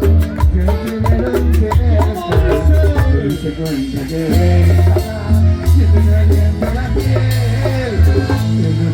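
Live cumbia band playing loud, with a heavy pulsing bass, a winding melodic lead line and steady percussion.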